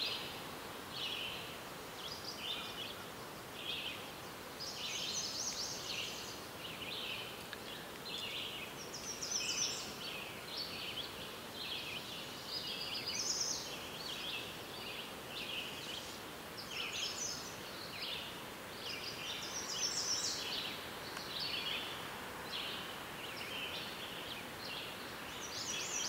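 Small birds chirping and singing in quick clusters of high notes every second or so, over a steady hiss.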